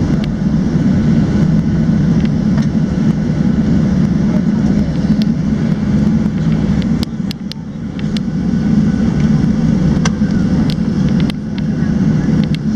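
Cabin noise inside a Boeing 737-700 with its jet engines running: a steady, loud low rumble with scattered light clicks and rattles. The rumble dips briefly about seven seconds in.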